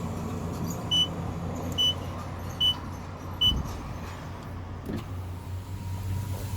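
Car wash entry keypad beeping as a code is keyed in: four short, high beeps about a second apart. Under it, the Dodge Grand Caravan's engine idles with a steady low hum.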